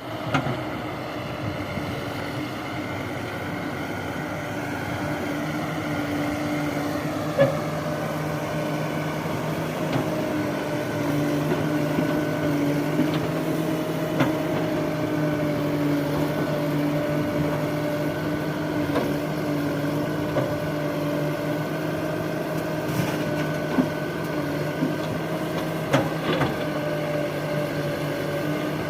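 Diesel engine of a working machine, a backhoe loader or tractor, running steadily under load. There are occasional sharp knocks and clunks, about half a dozen over the stretch.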